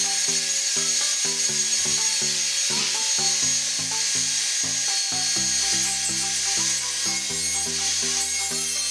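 Dremel rotary tool running at full speed with a steady high whine, cutting down wood on an old footstool, with a gritty rubbing noise as the bit bites. Background music with a regular beat plays underneath.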